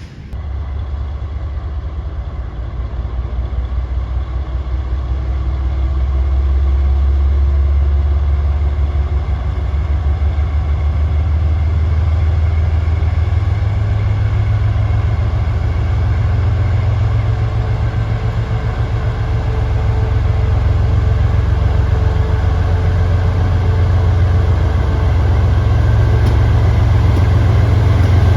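Diesel locomotive engine running with a deep, steady throb, stepping up in pitch about halfway through as it revs up and growing louder.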